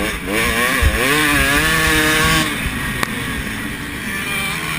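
Motocross bike engines revving, the pitch climbing and dropping repeatedly with throttle and gear changes, loudest in the first half and rougher and lower after about two and a half seconds.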